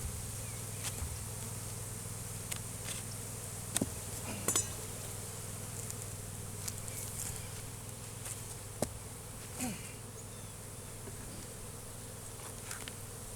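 Disturbed honey bees buzzing steadily in a low hum around an opened hive, agitated by the inspection. Single bees now and then whiz past with a brief glide in pitch, and a few sharp clicks and knocks stand out above the buzz.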